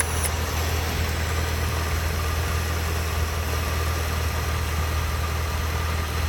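Edelbrock-equipped engine idling steadily with a vacuum leak. A faint thin high tone joins about two seconds in.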